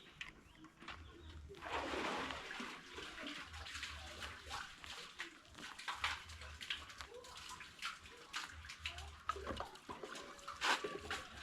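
Water splashing and pouring, with scattered clicks and knocks.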